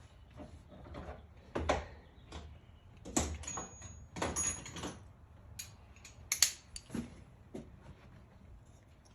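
Irregular clicks, taps and rustles of plastic engine-bay parts and a small metal bolt being handled and fitted by hand. The sharpest click comes about six and a half seconds in.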